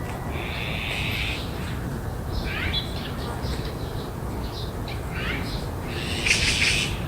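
Several birds calling: a buzzy call in the first second, short sweeping chirps around the middle, and a loud harsh call near the end, over a steady low background rumble.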